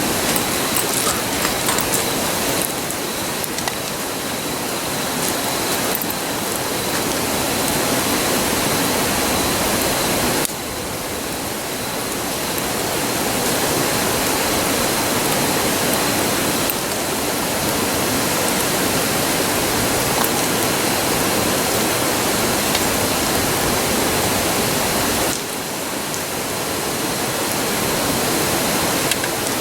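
River rushing as a steady roar, with a few faint crackles from a wood campfire near the start. The rushing drops abruptly in level twice, about ten seconds in and again near the end, then builds back up.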